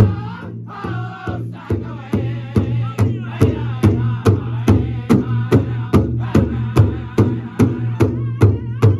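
Powwow drum group singing around a big drum struck in unison with sticks, with high, wavering voices over the beat. The beat is slow, about one strike a second, then picks up about two seconds in to roughly three strikes a second.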